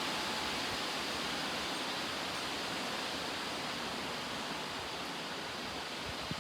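Strong thunderstorm wind blowing steadily, a constant rushing noise without breaks.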